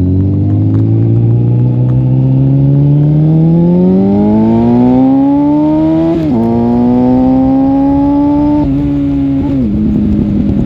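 Suzuki GSF 650 Bandit's inline-four engine through a Dominator oval exhaust with the dB-killer removed, pulling hard under acceleration with its pitch climbing steadily. About six seconds in the pitch drops sharply as it shifts up, then climbs again. It drops once more a little before the end and holds lower.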